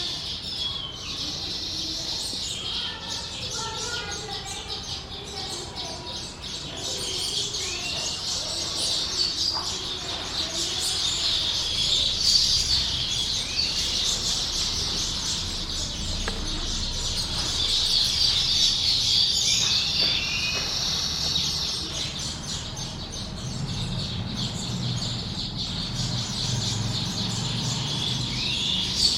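Baya weavers chattering at their nests: a dense, continuous high-pitched twittering, with a few short rising notes now and then.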